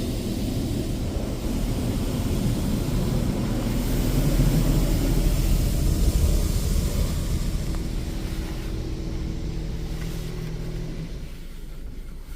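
High-pressure water from a PDQ Laserwash 360+ touchless car wash spraying onto the car, heard from inside the cabin over the machine's steady low hum. The spray grows louder toward the middle and fades near the end as the arm moves away.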